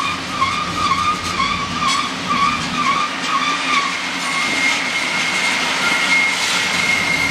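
Freight train of loaded coal hopper cars rolling through a sharp curve, steel wheels rumbling and clicking on the rails with a high wavering flange squeal that changes to a steadier, higher squeal about four seconds in.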